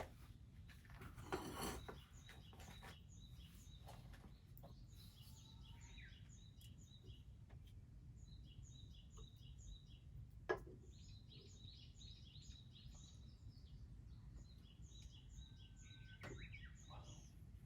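Faint small birds chirping in quick runs of short high notes over a low steady background rumble, with a few sharp clicks, the loudest about ten seconds in.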